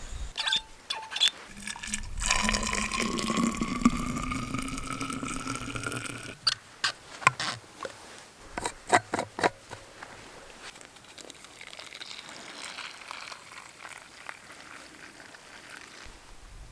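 Water poured into a container, the pitch rising steadily for about four seconds as it fills. A run of sharp clicks and knocks follows.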